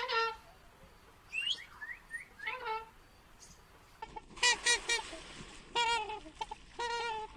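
Birds calling: a few short rising chirps, then from about four seconds in, repeated runs of pitched calls in quick groups.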